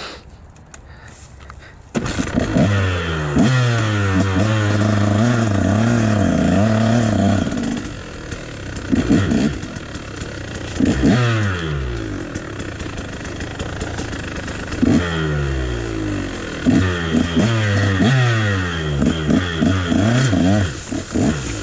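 KTM dirt bike engine that comes in suddenly about two seconds in, then is revved and ridden, its pitch rising and falling over and over with throttle changes. There is a run of quick rising revs in the second half.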